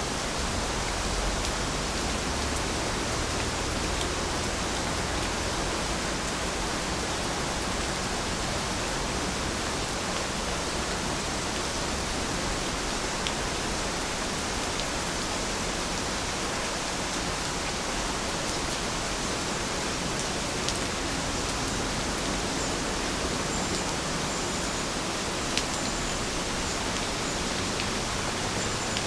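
Heavy rain falling steadily: a dense, even hiss, with a few sharp single drops ticking out of it.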